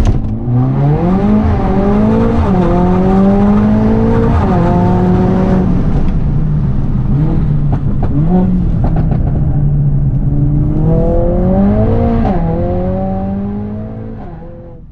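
Mercedes-AMG A45 S's turbocharged 2.0-litre four-cylinder, with a full FI exhaust and catless downpipe, accelerating hard on track: the engine note climbs and drops sharply at each upshift, several times, heard from inside the cabin. The sound fades away near the end.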